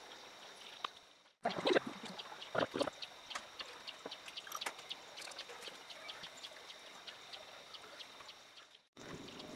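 Outdoor ambience with birds chirping: many short, high chirps over a faint steady background. The sound cuts out briefly twice.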